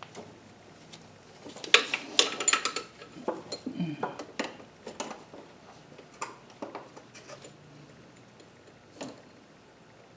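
Steel hand tools clinking and tapping in a run of short metallic clinks, with one last clink near the end, as a 10 mm wrench is tried on a bolt in the engine bay.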